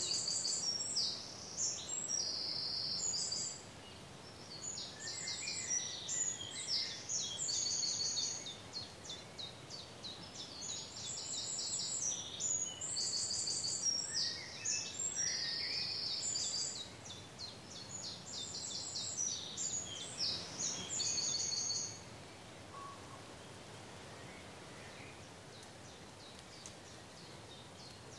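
A small songbird singing high, rapid chirps and trills in a series of phrases with short pauses, stopping about twenty-two seconds in, over a faint steady outdoor hiss.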